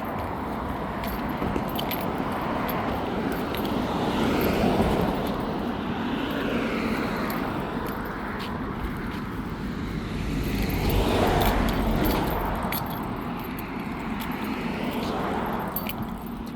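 Cars passing on a nearby road, their tyre and engine noise swelling and fading twice, loudest about four seconds in and again about eleven seconds in.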